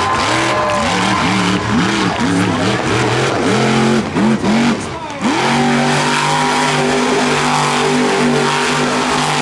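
Monster truck engine revved in quick repeated blips, rising and falling about a dozen times over five seconds. It is then held at a steady high rev for the rest.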